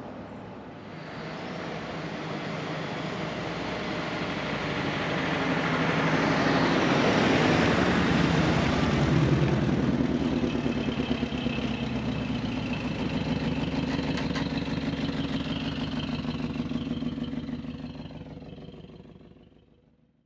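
Bentley S3's 6.2-litre V8 engine running as the car is driven, with road noise. It grows louder over the first several seconds, holds, then fades out near the end.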